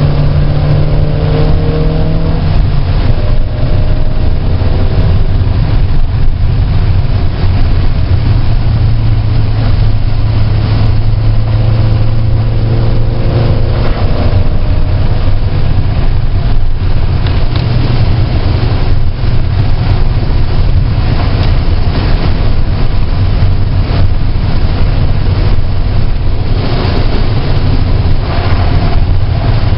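Car engine running at track speed, its pitch stepping up and down several times with gear changes and lifts, over a steady hiss of wind and tyre noise.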